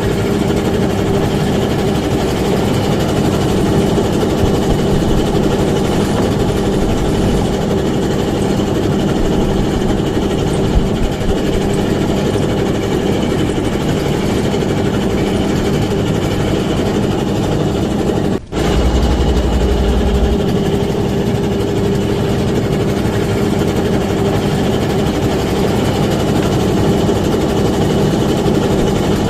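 A small fishing boat's engine runs steadily with a constant hum. The sound drops out briefly about two-thirds of the way through, then carries on as before.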